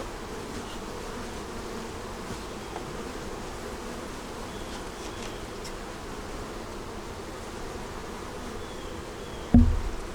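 Honey bees buzzing steadily around the hive, an even hum. A loud, low thump near the end.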